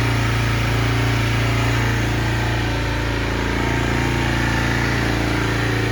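2009 Kawasaki 250 motorcycle engine idling steadily, shortly after a cold start.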